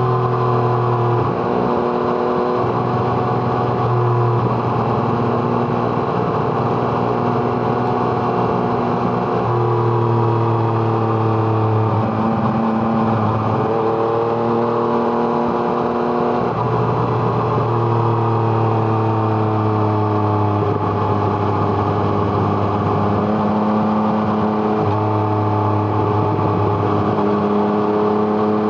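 2017 Yamaha MT-09's three-cylinder engine through an Arrow Thunder exhaust, heard onboard while riding: the engine note holds, sags and jumps to a new pitch several times as the rider works the throttle and gears.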